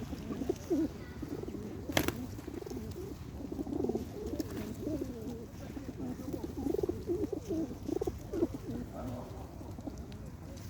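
Birds calling continuously in low, warbling calls, several overlapping one another, with a single sharp click about two seconds in.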